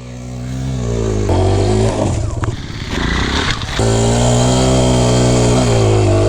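Dirt bike engine running at a steady throttle, broken for a second or two in the middle by a rough, choppy stretch before settling back to a steady note.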